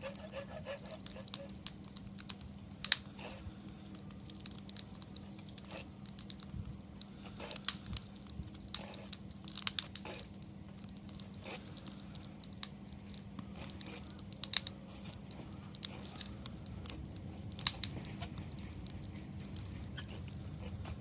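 Wood campfire crackling: irregular sharp snaps and pops from the burning wood, a few louder pops among many small ticks.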